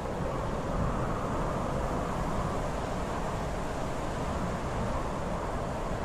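Steady mountain wind roar: an even, low rushing noise without breaks or separate gusts.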